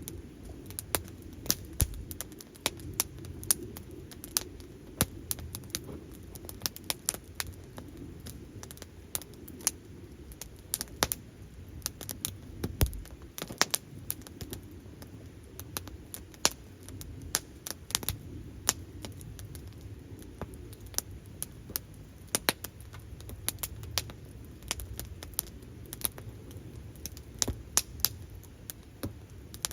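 Wood fire crackling and popping: irregular sharp cracks at random intervals over a low, steady rumble.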